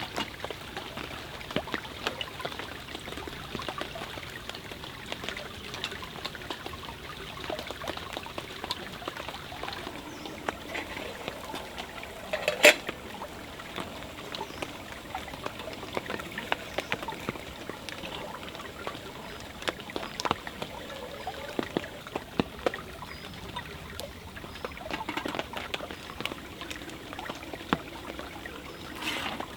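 Forest stream trickling and flowing steadily, with many small scattered clicks and pops and one loud sharp crack about halfway through.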